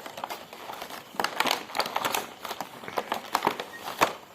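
Packaging crinkling and rustling with irregular sharp clicks as a mini RC helicopter is taken out of its box. The loudest click comes about four seconds in.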